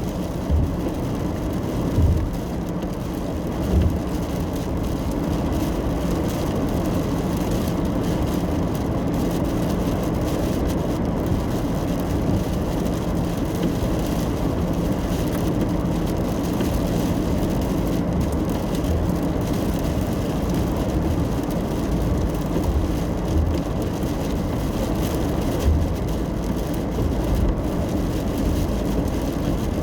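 Road noise inside a car driving in the rain: a steady low drone of tyres and engine, with a few brief low thumps about two and four seconds in and again near twenty-six seconds.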